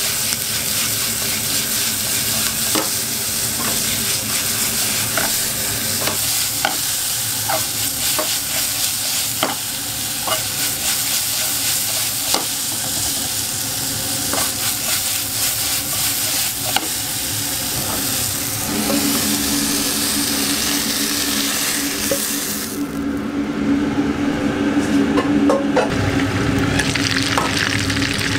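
Food sizzling as sliced onions and mushrooms are stir-fried in a pan over a high gas flame, with short sharp knocks every second or so as the pan is worked. Near the end, a hamburger steak sizzling in bubbling oil.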